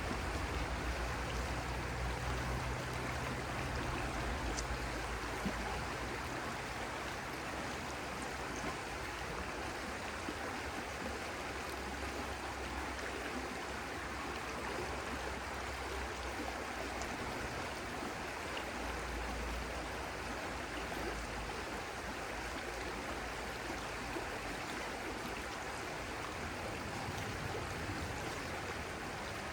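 Stream water flowing steadily, with a low rumble through the first several seconds.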